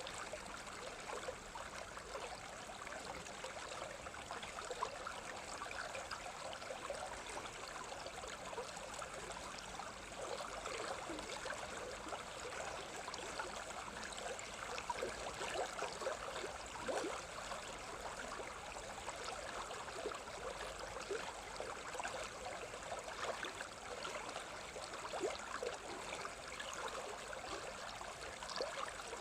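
A stream of running water, flowing steadily and evenly.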